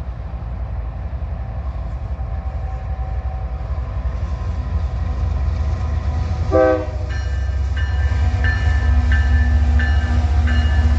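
Diesel freight locomotive approaching with a steady low engine rumble that grows louder. About six and a half seconds in, a short horn toot sounds, followed by a bell ringing steadily about every two-thirds of a second.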